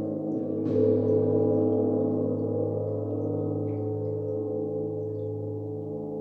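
A gong ringing with many sustained overlapping tones, struck again softly about a second in, then slowly dying away.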